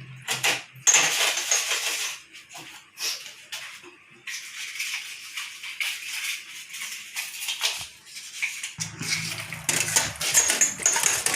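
Small metal parts and tools clinking and tapping on a diesel injection pump body as a bracket is fitted, with a steady hiss for a few seconds in the middle.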